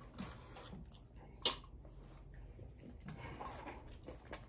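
Quiet chewing and eating sounds of chicken wings being eaten, with one sharp click about one and a half seconds in.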